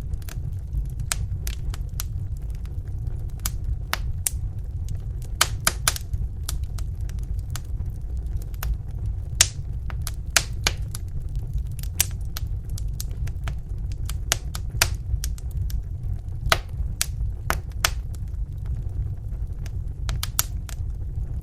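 Wood fire crackling in a fireplace: irregular sharp pops and snaps, several a second at times, over a steady low rumble of the burning fire.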